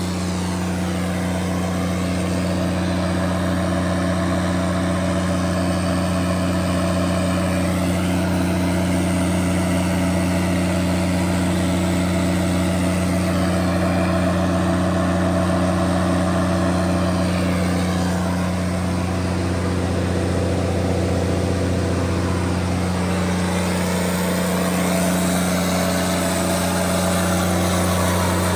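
Cummins QSL9-G7 inline-six diesel engine of a 300 kW standby generator set, running steadily at constant governed speed.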